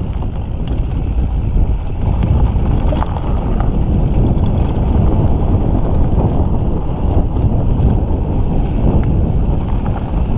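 Steady, loud rumble of a mountain bike rolling over a dirt trail, with wind buffeting the rider-worn camera's microphone and a few faint rattles.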